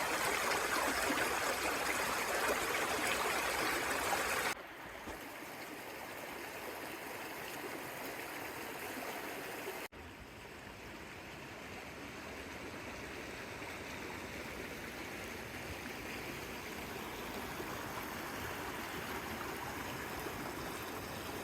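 Steady rush of river water flowing over rocks, the Virgin River in the Zion Narrows. The water sound drops abruptly quieter about four and a half seconds in, with a brief dropout near ten seconds.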